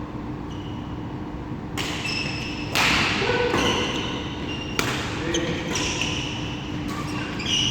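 Badminton rally: several sharp racket hits on the shuttlecock a second or two apart, with short high shoe squeaks on the court floor, echoing in a large hall.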